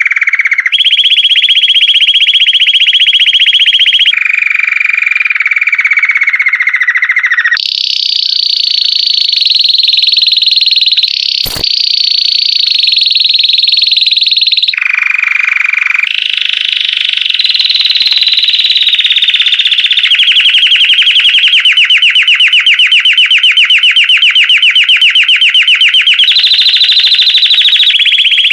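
Belgian canary (domestic canary) singing a long unbroken song made of held rolls and trills, each lasting a few seconds and jumping between lower and higher pitches, some sliding downward. Near the end it moves into a fast, even trill.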